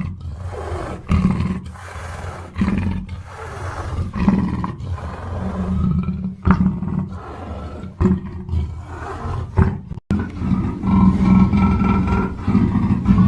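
Black panther roaring and growling in a run of separate calls, with a brief cut-out about ten seconds in.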